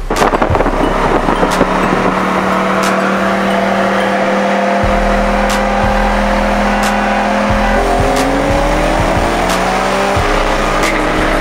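Chevrolet Corvette Grand Sport's stock 6.2-litre LS3 V8 accelerating hard with its six-speed manual. The engine note holds fairly steady, drops with a gear change about eight seconds in, then climbs again. Road and wind rush lie under it.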